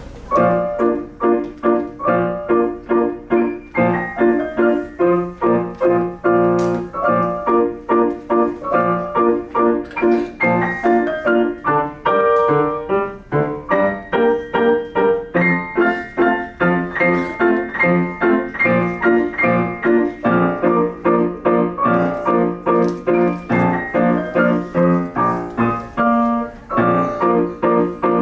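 Piano being played: a steady stream of notes, about two to three a second, over a repeating bass figure.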